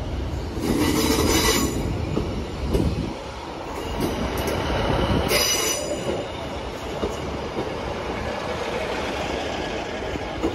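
An electric multiple-unit train moving slowly along the platform, rumbling steadily, with its wheels squealing high-pitched twice: about a second in and again about five seconds in.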